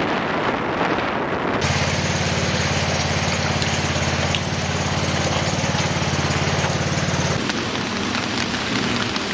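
Heavy typhoon rain and wind, a loud steady rush of noise. A steady low hum like an engine runs under it from about two seconds in until about seven seconds in.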